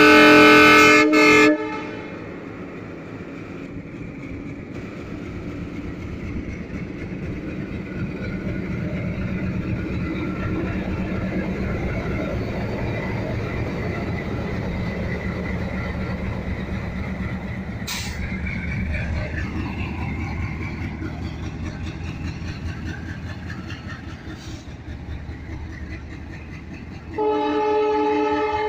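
WDM-3A diesel-electric locomotive sounding its horn for about a second and a half, then its ALCO 16-cylinder diesel engine running with a steady pulsing throb as it pulls the passenger train away, building over the first ten seconds or so and holding. A short click comes about two-thirds of the way through, and the horn sounds again near the end.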